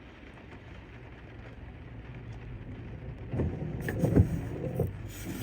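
A car's engine drawing closer and growing steadily louder as it pulls up alongside, with a louder, rougher rumble past the halfway point.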